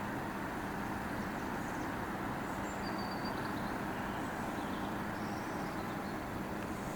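Steady rumble of road traffic with a low, even engine hum.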